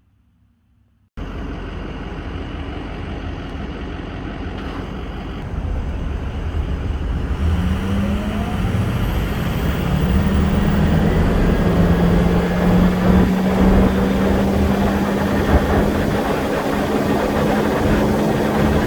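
Ford 6.0 Powerstroke V8 turbodiesel running: the sound comes in abruptly about a second in and grows louder, with a steady hum that rises a little in pitch.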